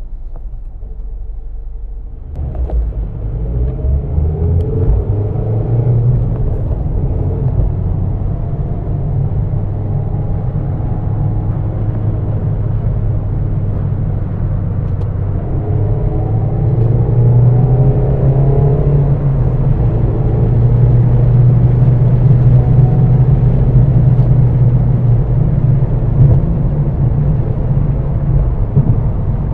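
2022 Mazda MX-5 Miata's 2.0-litre four-cylinder engine, heard from inside the open-top cabin: idling at first, then pulling away about two seconds in and accelerating with gear changes on its manual gearbox before settling into a steady cruise.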